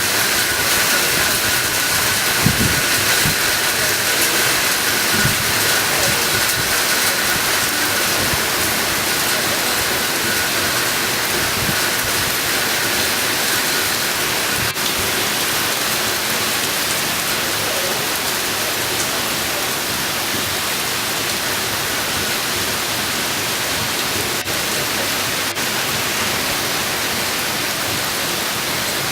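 Heavy rain pouring down in a dense, steady hiss, with a few brief low thuds in the first dozen seconds.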